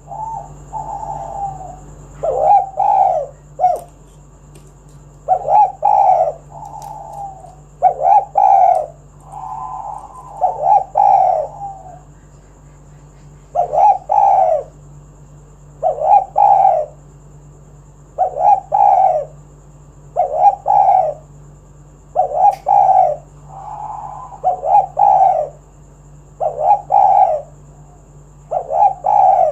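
Spotted dove cooing over and over, a loud call phrase about every two seconds, with softer notes between some of the phrases.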